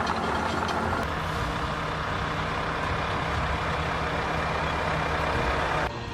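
Heavy machine's engine running steadily under a broad mechanical noise, which drops off suddenly near the end.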